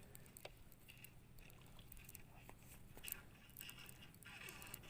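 Near silence: faint scattered small clicks and ticks over a low background hum.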